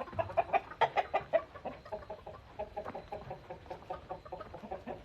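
Chickens clucking: a run of short clucks, loudest in the first second and a half, then a quicker, softer chatter of clucks.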